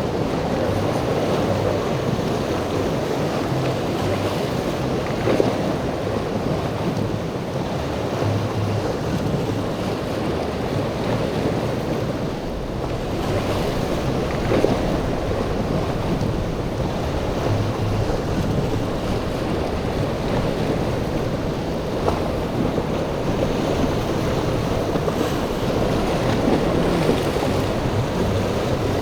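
Rough inlet water and breaking waves with wind buffeting the microphone, and boat engines running under the steady wash.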